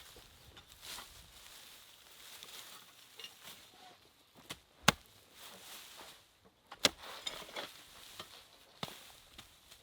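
Irregular sharp knocks and clicks over a light rustle, the loudest two about five and seven seconds in.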